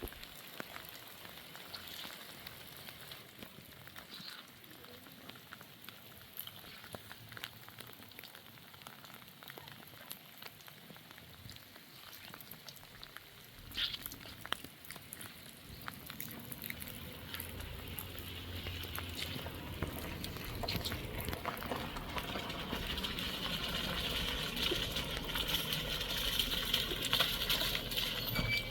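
Rain falling, an even patter of drops that grows louder over the second half.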